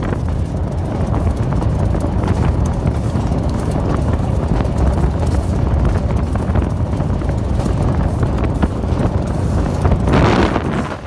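RGE-20 diesel-electric locomotive running along the track: a steady low rumble of engine and wheels on rails, with wind buffeting the microphone. The rush of wind swells louder about ten seconds in.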